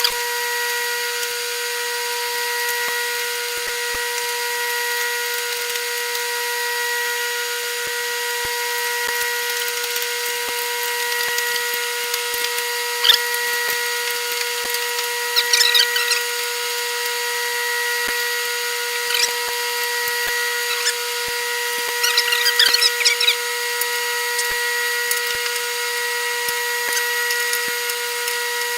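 A steady, even machine whine, with a few short metallic rattles about halfway through and again near three-quarters of the way.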